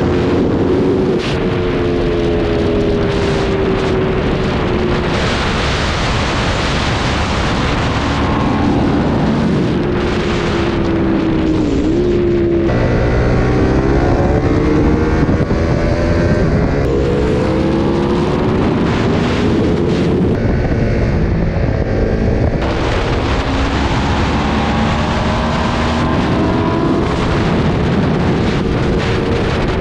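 Aprilia RSV4 superbike's V4 engine under hard riding, its pitch climbing and dropping again and again through throttle and gear changes, with wind rushing over the microphone. About a third of the way in the throttle closes and the pitch sweeps down, then climbs again.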